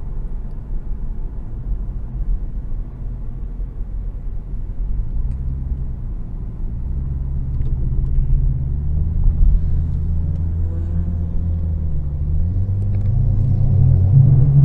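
A car engine running with a deep rumble, its pitch rising near the end as it revs up.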